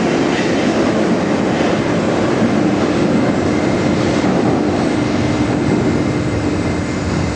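Moscow Metro 81-717.5/714.5 train cars pulling out and running along the track: a steady, loud rolling rumble, with a steady hum joining about three seconds in.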